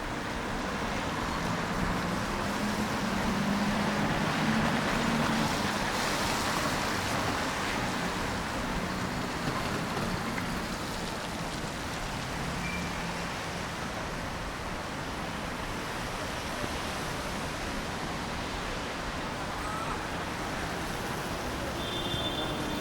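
Road traffic on wet streets: a vehicle passes with engine hum and tyre hiss, swelling to its loudest about four to six seconds in, over a steady wash of city noise.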